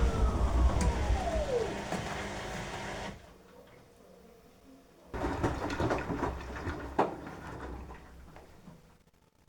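Beko washing machine drum tumbling the load: the motor's whine falls in pitch as the drum slows and stops, then after a short pause the drum turns again with clunks and sloshing before falling quiet near the end.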